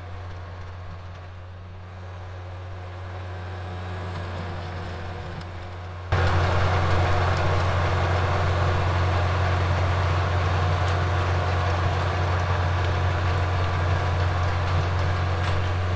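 Kubota L4701 tractor's diesel engine running steadily while driving a rear rototiller. About six seconds in the sound jumps abruptly louder and then holds steady.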